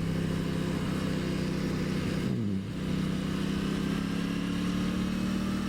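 2023 Aprilia Tuono 660's parallel-twin engine running under steady throttle while riding, with wind noise. Its note dips briefly a little over two seconds in, then holds steady again.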